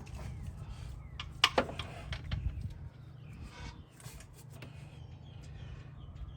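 Hand tools knocking and clinking against the car's metal parts, with a sharp ringing knock about a second and a half in, over a steady low hum.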